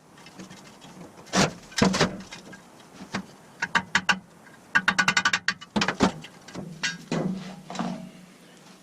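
Irregular metallic knocks and clinks of metal parts being handled, some ringing briefly, over a faint steady low hum.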